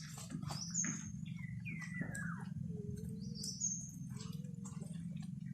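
Small birds calling: short, sharp high chirps repeated every few seconds, with one falling whistled note about two seconds in. A steady low hum runs beneath.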